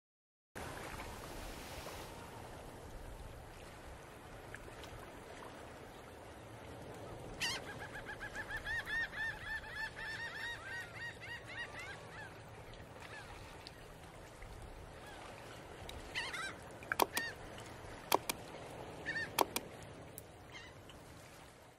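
Birds calling over a faint steady hiss: a quick run of repeated calls, about four or five a second, from a few seconds in, then a few sharp short sounds and calls near the end.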